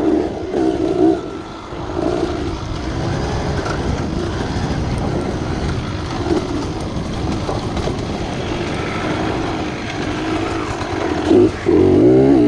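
Dirt bike engine revving up and down with the throttle. It eases off to a lower, steadier drone after about a second and a half, then opens up loudly again near the end.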